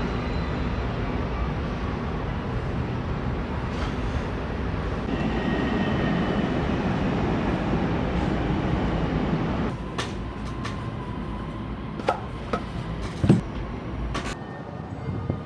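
A steady low rumbling noise that swells and then eases off about ten seconds in, followed by a handful of sharp clicks and knocks.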